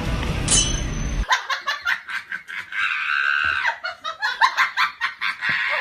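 Music that cuts off abruptly about a second in, followed by a person laughing in quick, choppy bursts.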